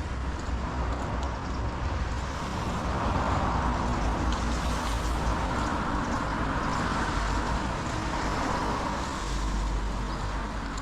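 Heavy rain falling steadily, with a hiss that swells and fades over several seconds in the middle and a low rumble underneath.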